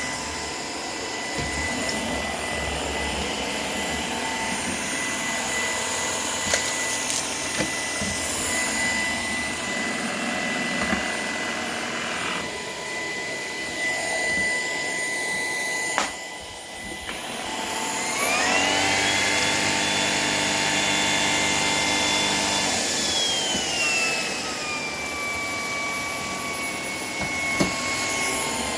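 Shark PowerDetect cordless vacuum running steadily over a hard floor. After a brief dip with a click, about 18 seconds in its motor speeds up and the whine rises in pitch, holds for several seconds, then eases back down. This is the automatic suction boost that the PowerDetect uses when it senses debris.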